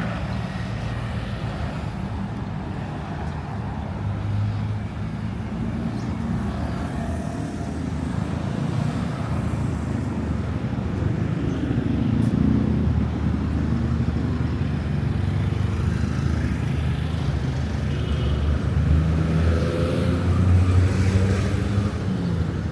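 Road traffic close by: the engines of passing cars and motorbikes running in a continuous rumble, with louder passes about halfway through and again near the end.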